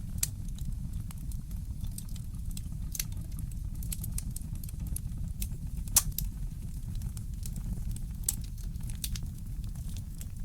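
Wood fire crackling in a fireplace: scattered sharp pops and snaps, the loudest about six seconds in, over a steady low rumble.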